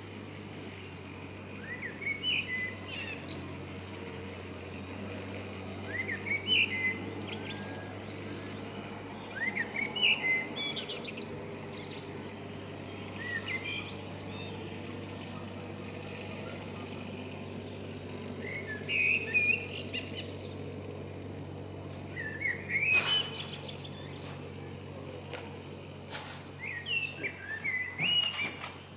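A songbird singing short, bright phrases that repeat every three to four seconds, with a steady low hum underneath.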